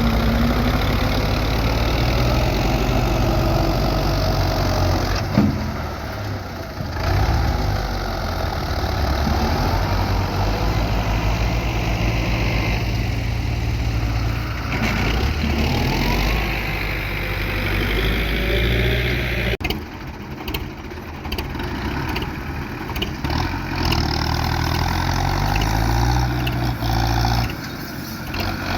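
Belarus 510 tractor's diesel engine running under heavy load, its speed rising and falling as it pulls a trolley loaded with mud, with brief drops in level around a quarter of the way in and again about two-thirds through.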